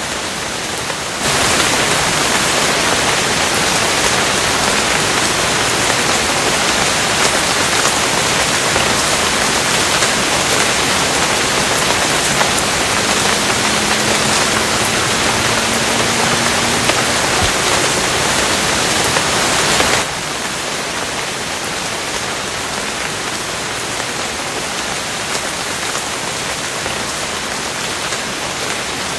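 Steady rain, a dense even hiss of falling rain. About a second in it turns louder and brighter, and about 20 seconds in it drops back to the softer level.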